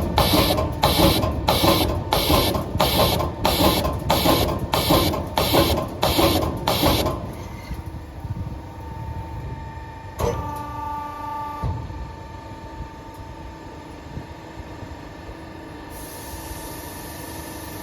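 CNC rotary punching machine punching holes in a metal exhaust tube: a rhythmic clack about twice a second, which stops about seven seconds in. The machine then runs on with a steady hum, with a single clank about ten seconds in.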